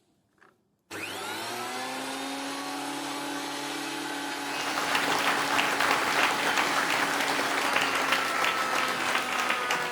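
An electric woodworking power tool switches on about a second in and spins up to a steady hum. From about halfway it cuts into wood, with a louder, rougher noise over the motor until near the end.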